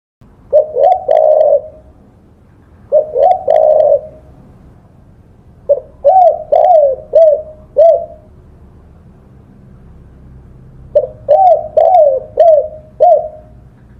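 Spotted dove cooing: four phrases of low, arched coo notes, the first two short and the last two longer runs of about five notes each, with pauses of a second or two between phrases.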